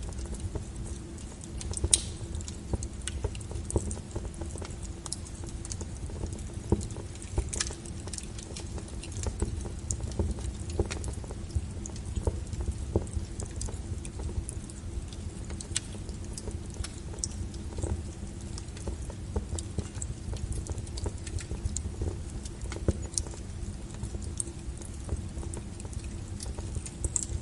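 Wood fire crackling: irregular sharp pops and snaps over a low steady rumble from the burning logs.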